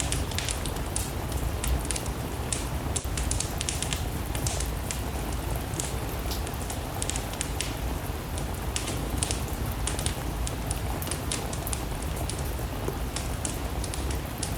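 Steady rain mixed with a wood fire in a fireplace: frequent sharp, irregular crackles over an even low rumble and hiss.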